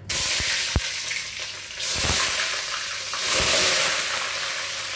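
Sliced onions hitting hot cooking oil in a pot and sizzling. The loud hiss starts suddenly, swells again about two and three seconds in, and a few short knocks against the pot sound over it.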